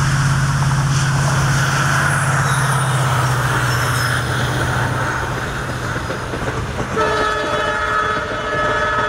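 Indian Railways WDG4 diesel locomotive running past with a steady low engine drone and train noise. About seven seconds in, its horn starts sounding a steady chord of several notes.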